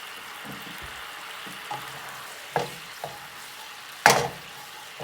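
Thai sweet-sour chilli sauce sizzling and bubbling in a pan as it is stirred down to thicken. A utensil knocks against the pan a few times, loudest about four seconds in.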